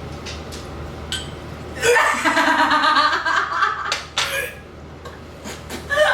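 A person laughing in a burst of about two and a half seconds that starts about two seconds in. It follows a faint click.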